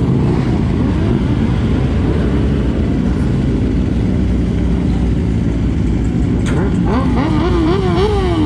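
Motorcycle engine running steadily while riding, under a loud, dense rush of noise. Near the end a pitched sound wavers rapidly up and down over it.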